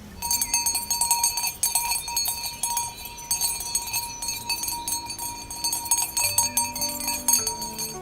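Bells on cattle jangling continuously as the animals walk, a dense, irregular clatter of small metal bells with a steady ringing pitch.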